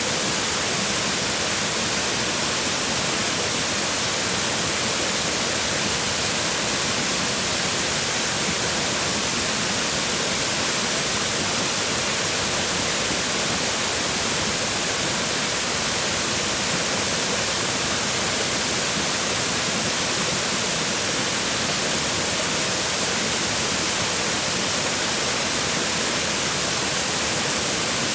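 Waterfall: water falling and splashing on rocks, a steady, even rushing hiss with no breaks.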